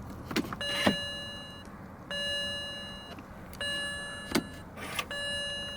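Car's electronic warning chime sounding four times, a ringing tone that fades over about a second and repeats every second and a half, with a few sharp clicks and knocks in between; the engine is not yet running.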